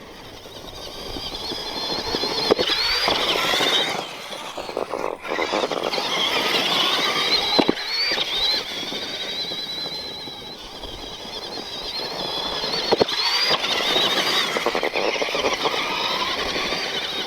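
Axial SMT10 Grave Digger RC monster truck driving: its electric motor and all-metal gear transmission whine high, rising and falling with the throttle in three long passes, over tire noise. A few sharp knocks come through along the way.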